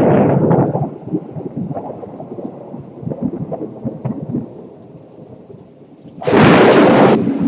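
Thunder from close lightning: a loud crack at the start that breaks up into crackling, rolling rumble over the next few seconds, then a second sudden, very loud crack about six seconds in lasting under a second.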